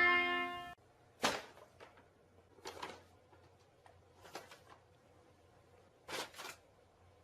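A pitched tone breaks off suddenly under a second in. After that come a few separate short knocks with quiet between them: the first, just over a second in, is the clearest, and two quick ones come near the end.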